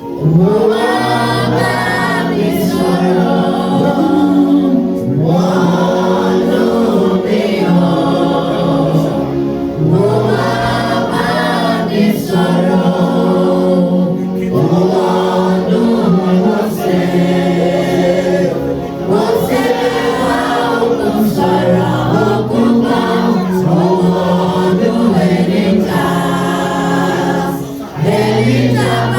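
Church choir and congregation singing a gospel worship song, in repeated sung phrases over sustained accompanying tones.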